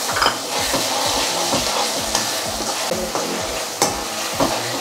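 Chopped onions and tomatoes sizzling in hot oil in a metal kadai, being sautéed into a masala base while a steel spatula stirs them. The spatula scrapes and clicks against the pan a few times.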